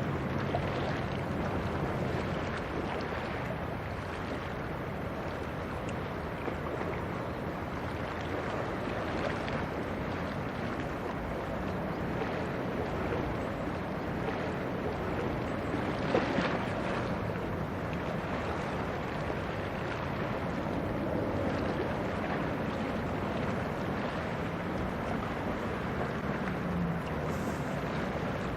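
Low steady drone of a passing coastal cargo ship's engine under a constant wash of wind and water, with one brief louder gust-like burst about halfway through.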